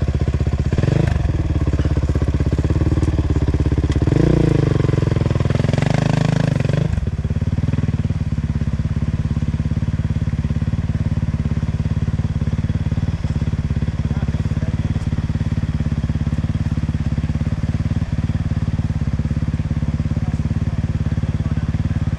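Two-stroke enduro motorcycle engine, just started, blipped up and down in pitch for about the first seven seconds. It then settles into a steady idle.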